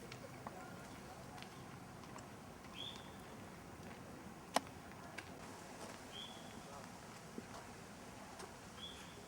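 A bird giving a short high chirp three times, about three seconds apart, over a faint steady background, with a sharp click about halfway through.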